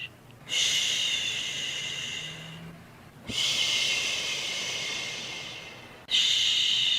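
Repeated shushing "shhh" sound for soothing a baby: three long shushes about every three seconds, each starting sharply and fading away, with a brief lull between them.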